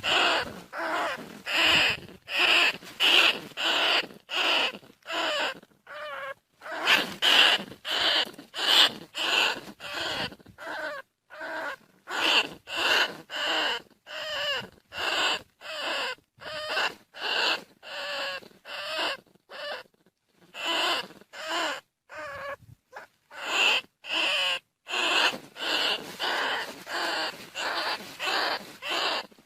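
Bandicoot rat calling: short, squeaky calls repeated about twice a second in runs, with a few brief pauses between runs.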